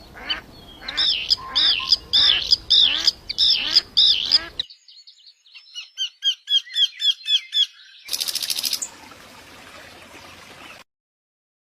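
Birds calling: a run of repeated harsh calls, about two to three a second, then a quicker series of short, higher chirps, then a brief, very high buzzing trill. The sound cuts off suddenly near the end.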